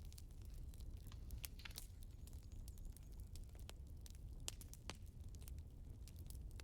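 Firewood burning with a faint, irregular crackle: scattered sharp pops and snaps over a low steady rumble.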